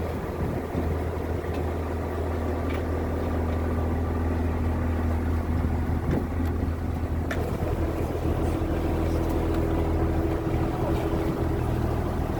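A tour boat's engine running steadily underway: a low, even drone, with a hum that steps up in pitch a little past halfway through.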